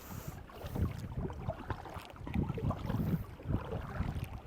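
Kayak on the water: irregular low splashes and knocks from paddling and water against the hull.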